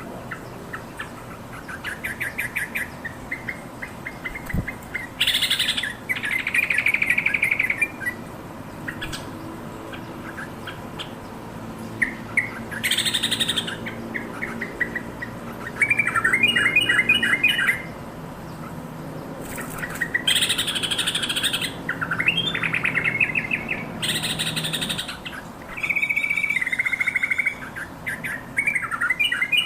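Yellow-vented bulbul calling. It gives bursts of rapid, bubbly chattering notes every few seconds, some of them harsh and loud.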